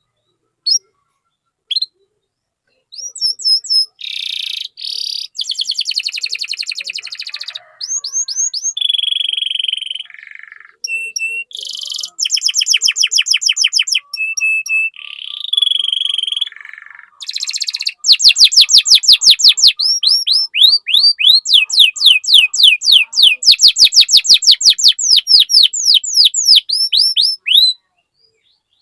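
Domestic canary singing a long, varied song of fast trills and rolls after two single chirps, ending in a loud trill of rapid repeated sweeping notes over its last ten seconds.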